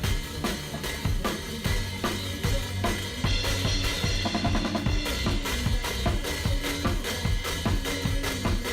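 Drum kit played along with a recorded song, with regular drum hits over a backing track of bass and melody.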